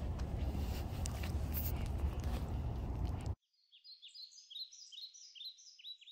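Steady outdoor noise with a low rumble, which cuts off suddenly a little over three seconds in. After that a small songbird sings a quick run of short, high chirps.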